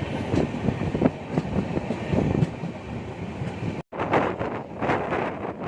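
Moving express passenger train heard from on board: a steady rumble of the coaches with clicks from the wheels over the rails. About four seconds in the sound cuts out for a moment, and then wind buffets the microphone over the running noise.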